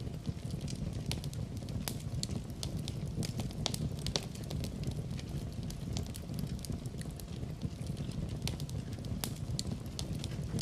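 Fire crackling in a fireplace: a steady low rumble of flames with frequent, irregular sharp pops and snaps.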